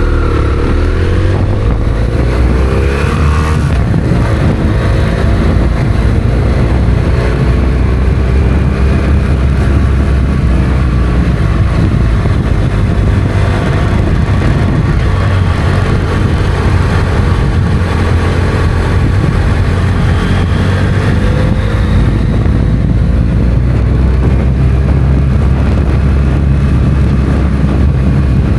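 Motorcycle engine running at speed on the road, heard from on board under a steady rush of wind and road noise. Engine pitch shifts up and down in the first few seconds and again around twenty seconds in.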